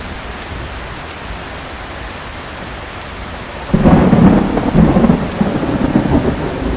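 Steady heavy rain, then a little past halfway a clap of thunder breaks in suddenly and rumbles loudly on, deep and rolling.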